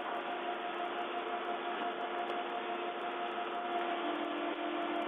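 Steady hiss of background noise with a faint, constant hum running through it.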